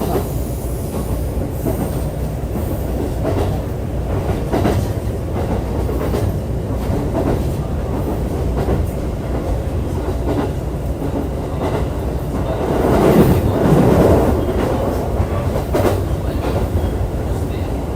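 JR East E531 series electric train running along the track: a steady rumble of wheels on rail with scattered sharp rail-joint clicks. It swells louder for about two seconds near the end.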